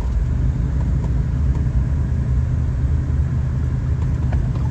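Steady low rumble of a 1980s Ford Bronco on the move, engine and tyres.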